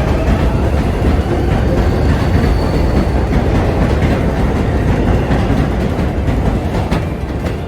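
New York City Subway 7 train running on the rails: a loud, steady rumble with rail noise, and a single sharp clack near the end.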